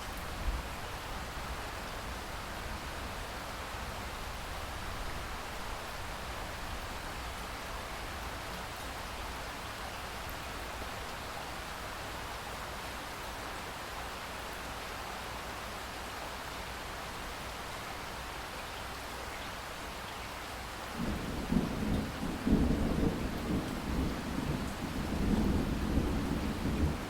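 Steady rain falling, then about three-quarters of the way through a roll of thunder starts suddenly and rumbles on, uneven, over the rain to the end.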